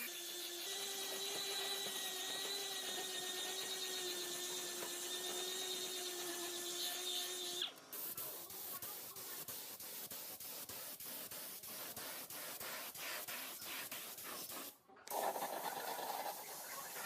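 Workshop power tools. First a motor runs with a steady whine. Then, after an abrupt change about eight seconds in, comes a rapid, even ticking. A second abrupt change near the end leads into a noisier, hissing stretch.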